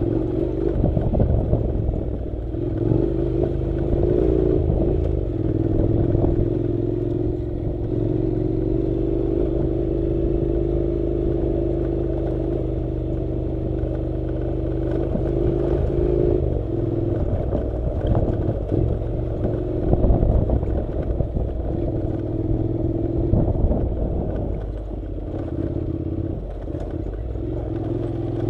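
Honda NC700 motorcycle's parallel-twin engine running at a steady, slightly varying pitch while riding a rough dirt track, with scattered knocks and clatter from the bike over the ground.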